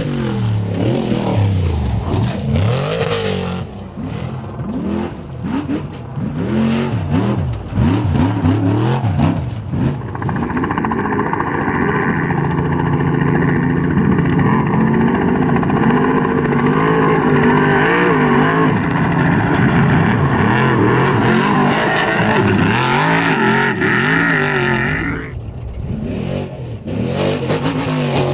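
Off-road racing truck engine revving hard, its pitch rising and falling with throttle and gear changes. About ten seconds in it settles into a long, steady high-revving run, then backs off briefly near the end before revving up again.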